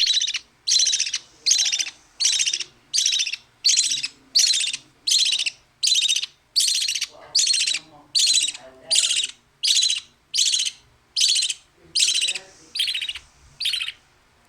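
Begging calls of a young bird being hand-fed: a harsh call repeated steadily, nearly two a second, stopping shortly before the end.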